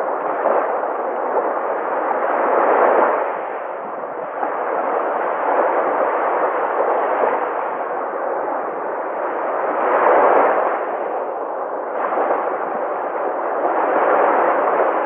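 Sea waves breaking and washing ashore, a steady rushing that swells with each wave roughly every three to four seconds.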